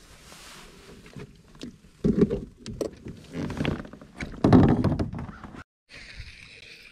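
Handling noise in a kayak: irregular bumps, knocks and scrapes against the hull, with two louder rustling bursts. The sound cuts out briefly near the end and gives way to a steady hiss.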